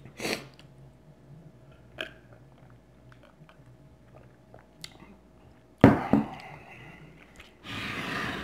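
A person chewing food close to the microphone, with small wet mouth clicks. A sudden loud sound comes about six seconds in, and about a second of rushing noise near the end.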